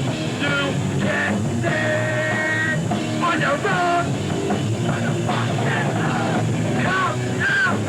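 Hardcore punk band playing live at full volume: distorted electric guitar and drum kit, with pitched lines bending and sliding throughout.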